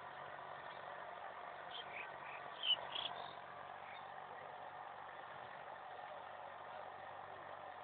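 Agri King tractor engine running steadily at moderate distance, a low even hum. A brief sharp sound stands out about three seconds in.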